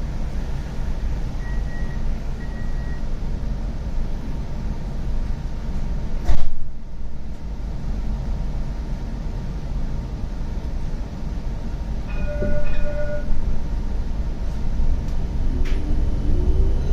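Interior sound of a CAF Urbos 100 tram at a stop: a steady low rumble, with two short high beeps early on, a single loud knock about six seconds in, and a short multi-tone electronic beep about twelve seconds in. Near the end a rising whine begins as the tram pulls away.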